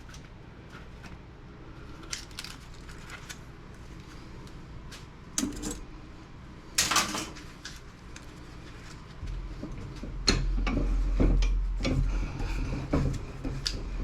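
Metal scrap parts being handled and set down: scattered sharp clicks and knocks, with a louder clatter about seven seconds in. A low hum comes in about nine seconds in, under a run of quick knocks.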